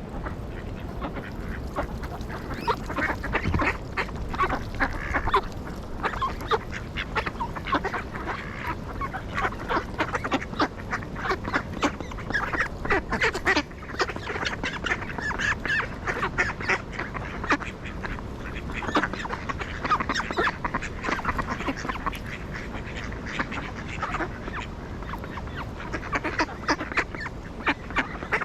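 A flock of ducks quacking, many short calls in quick, overlapping succession.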